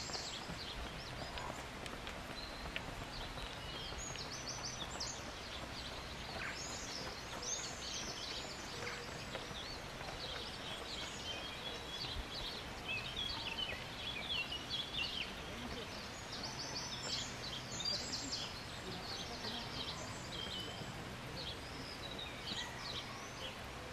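Several songbirds singing, a busy mix of short chirps, trills and whistles, over a steady low background noise.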